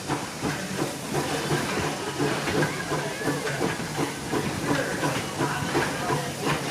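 The 1873 Mason Machine Works steam locomotive Torch Lake running, with a steady, rapid, even beat over a hiss of steam.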